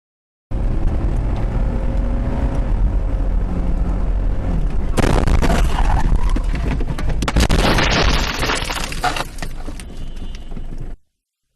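Car crash: steady engine and road rumble, then about halfway through a sudden loud impact followed by several seconds of crunching and breaking, easing off near the end.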